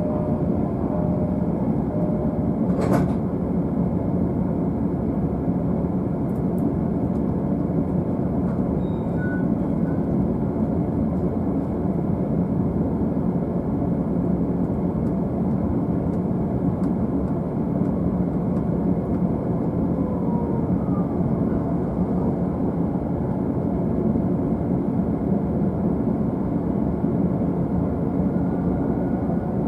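Inside noise of a JR East E531-series commuter train heard from the upper deck of a bilevel Green car: a steady low rumble with one sharp click about three seconds in.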